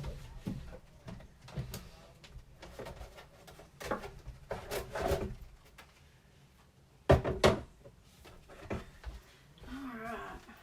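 Rummaging for craft supplies: scattered knocks, clatter and rustling of things being picked up and put down, the loudest a sharp double knock about seven seconds in.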